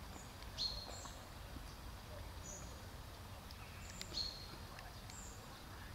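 Small birds giving short, sharp chirps every second or two, the loudest about half a second in and again about four seconds in, over a steady low background rumble.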